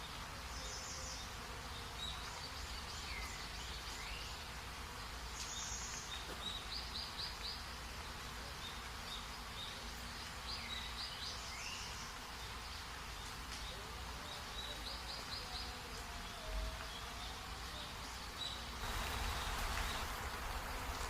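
Forest ambience: short, high-pitched trains of rapid chirping calls repeating every few seconds over a steady hiss. Near the end the hiss swells louder and fuller.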